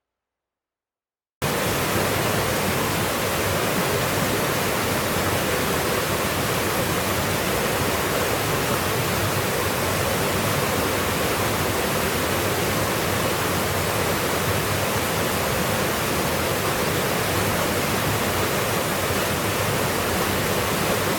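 A steady, even rushing noise that cuts in suddenly after about a second and a half of silence and holds unchanged.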